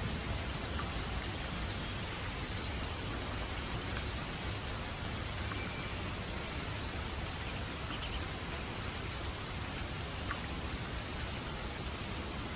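Steady rain falling on a roof: an even hiss with now and then a single sharper drop tick.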